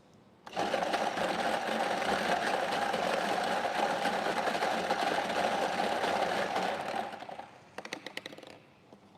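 Electric prize-draw machine started with a button press, running with a steady mechanical rattle for about seven seconds, then a short run of clicks as it stops on a number.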